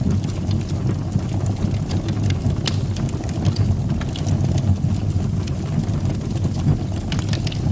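Fire burning in a fireplace: a steady low rumble of the flames with scattered crackles and pops.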